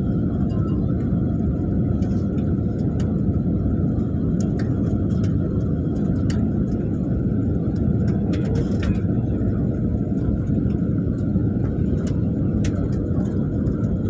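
Steady low rumble of cabin noise inside a passenger jet airliner, with a faint steady hum above it and scattered light clicks.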